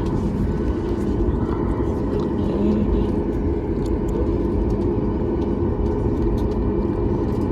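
Jet engines of a Boeing 737 MAX 9 (CFM LEAP-1B turbofans) running, heard from inside the passenger cabin: a steady, heavy rumble with a constant hum of several held tones.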